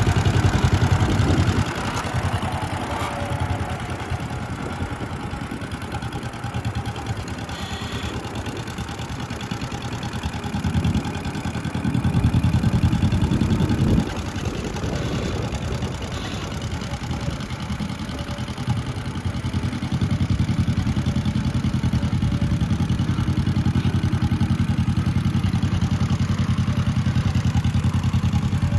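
John Deere LA tractor engine running during a drive, its loudness rising and falling; it is louder briefly at the start, again for a couple of seconds about halfway, and steadily louder over the last third.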